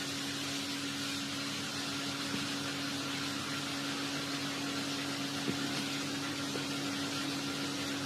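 Steady background hum and hiss, with one faint tick about five and a half seconds in.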